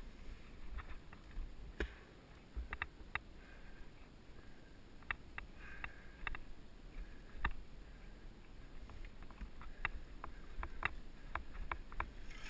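Mountain bike rolling over a dirt trail, heard from a helmet camera: irregular sharp clicks and rattles from the bike and trail, with low wind rumble on the microphone.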